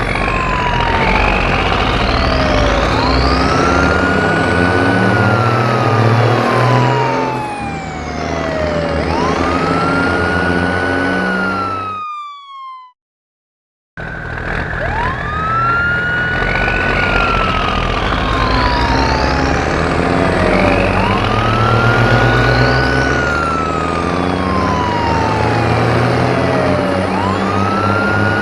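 Wailing emergency-vehicle siren, each cycle rising quickly and falling slowly, about every three seconds, over a low vehicle rumble. It cuts out briefly near the middle, then starts again.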